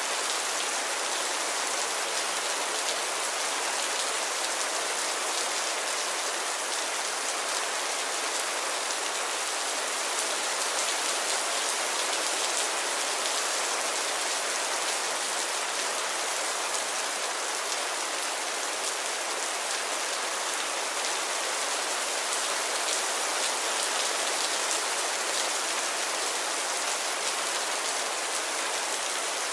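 Steady rain falling, an even hiss of many fine drops with no thunder or distinct splashes.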